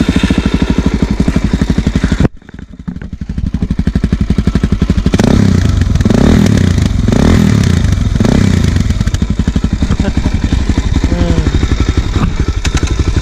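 Suzuki DR-Z400 supermoto's single-cylinder four-stroke engine, fitted with a tuned exhaust, idling with a steady thudding beat. Between about five and nine seconds in it is blipped several times to a higher speed, then it settles back to idle. The sound drops out briefly about two seconds in.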